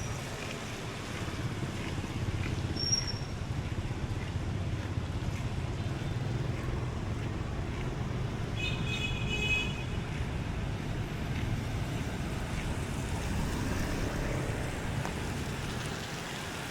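Street traffic: a steady rumble of passing vehicles, with a short high-pitched tone about nine seconds in.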